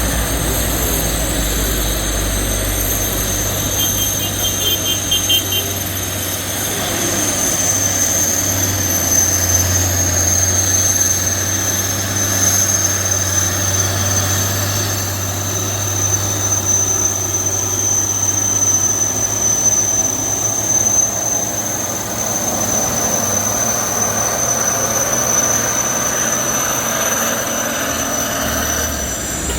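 Heavy truck's diesel engine running steadily, with a steady high whine over it. A short run of quick beeps comes about four seconds in.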